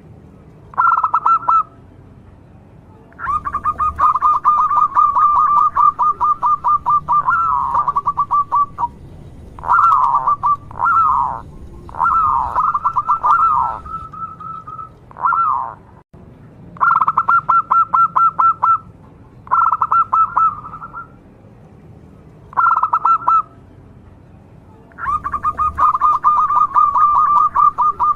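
Local zebra dove (perkutut) singing: repeated bouts of fast staccato cooing notes, some short and some running several seconds, with brief pauses between them.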